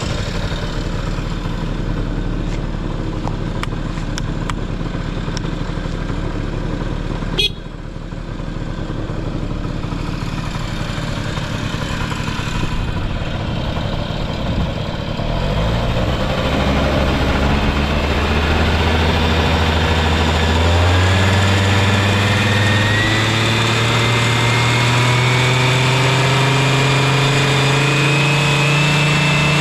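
Honda Lead 90 (HF05) scooter's two-stroke single-cylinder engine idling steadily, with one sharp click about seven seconds in. From about halfway the revs climb slowly and steadily, the pitch rising to the end. The engine runs quietly with no abnormal noise.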